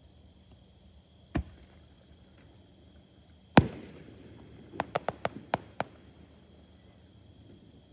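Fireworks bursting: a single bang about a second and a half in, a louder bang with a rumbling echo a couple of seconds later, then a quick run of about seven sharp cracks. Insects chirp steadily underneath.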